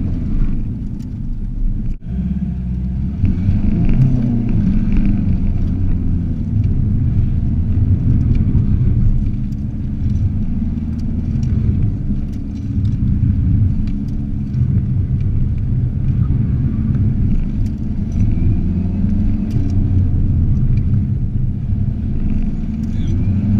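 Volkswagen Corrado's TDI turbodiesel engine running under load as the car is driven through a cone course, heard from inside the cabin. Its low rumble rises and falls with the throttle, with a brief sharp dip about two seconds in.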